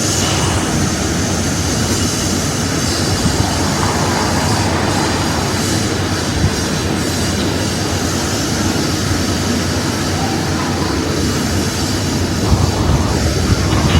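Steady rushing noise of wind buffeting the microphone, with a strong, unsteady low rumble.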